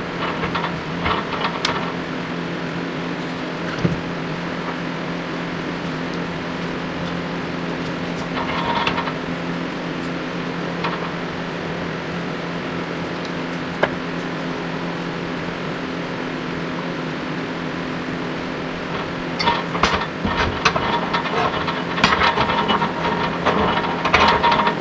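A steady mechanical hum with a low droning tone, with bursts of light clattering and ticking near the start, briefly at about nine seconds, and repeatedly over the last five seconds.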